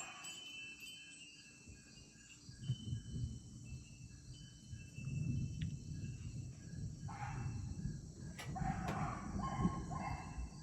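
Crickets chirping steadily, under a low rumble that builds from a few seconds in. A drawn-out animal call, fowl-like, comes about seven seconds in and lasts a few seconds.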